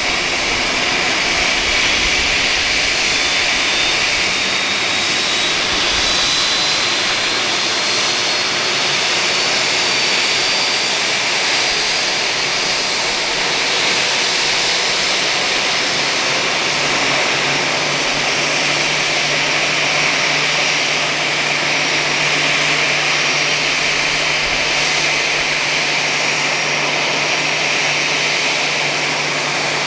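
Airbus A320-214's CFM56 jet engines running loud and steady. A thin whine climbs slowly in pitch over the first dozen seconds, and a low steady hum joins a little past halfway.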